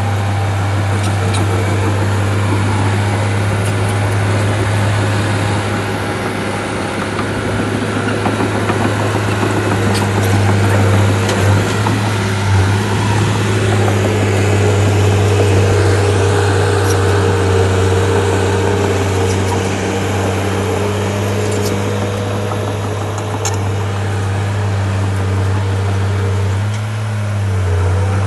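Bulldozer's heavy diesel engine running steadily, with a deep, even hum and a slight rise in pitch about halfway through.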